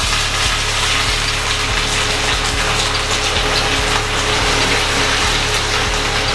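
Chopped vegetables sizzling in hot oil in a stainless steel frying pan: a steady, hissing sizzle.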